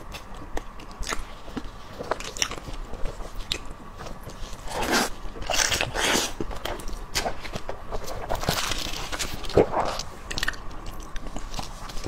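Close-miked biting and chewing of grilled, sauce-coated pig skin: many short clicks and smacks, with longer, louder stretches about five seconds in and again around eight to ten seconds.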